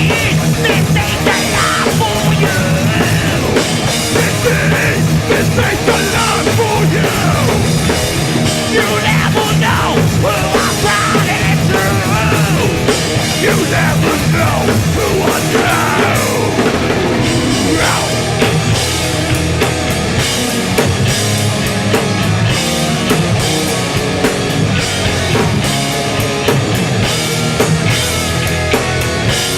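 Hardcore punk band playing live: distorted electric guitars, bass and a drum kit, loud and steady throughout.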